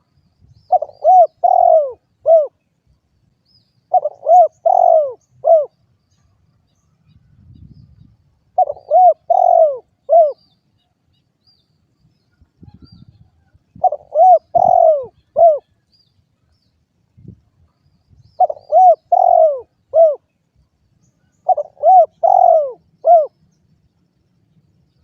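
Spotted dove (derkuku) cooing: six phrases of four or five arched coos each, one every three to five seconds.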